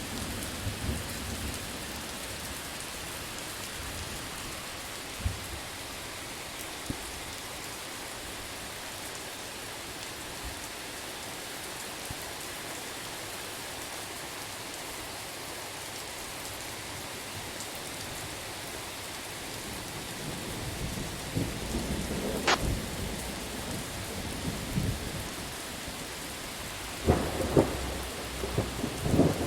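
Steady rain falling in an even hiss. In the last third thunder builds: a rumble, a sharp crack about two-thirds of the way through, and a louder rumble growing into a strong thunderclap at the very end.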